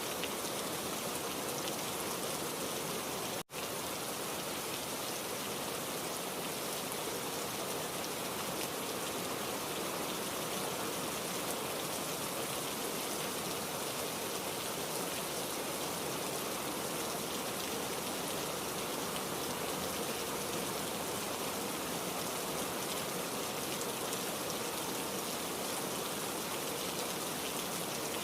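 Steady heavy rain pattering on surfaces, with a momentary break in the sound about three and a half seconds in.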